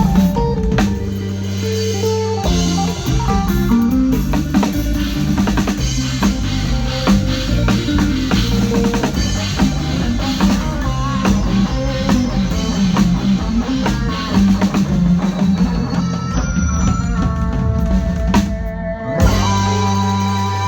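A band playing with drum kit, bass and guitar during a sound check. About 19 seconds in the playing stops briefly, then comes back with long held notes.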